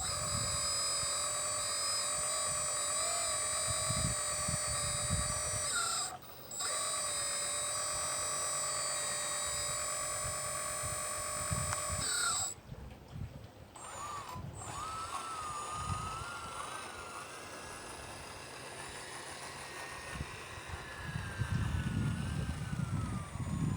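Small electric motor of a radio-controlled model machine whining at a steady pitch, dropping out for a moment about six seconds in and stopping about twelve seconds in; then a quieter motor whine that rises and falls in pitch as it is worked.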